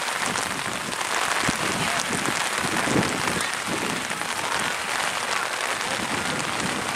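Steady rain falling, an even hiss, with faint voices in the background.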